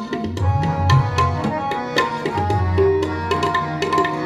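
Tabla playing a rhythmic instrumental passage between sung lines of kirtan: quick sharp strokes on the small drum, with low bass-drum notes that bend upward in pitch, over steady held notes from the accompaniment.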